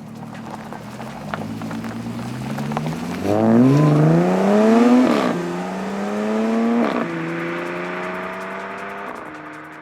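Audi S4's supercharged 3.0 TFSI V6 through a Scorpion Predator exhaust with the rear silencers deleted. It runs steadily, then accelerates hard about three seconds in, its pitch climbing and dropping sharply at two upshifts before climbing again and easing off near the end.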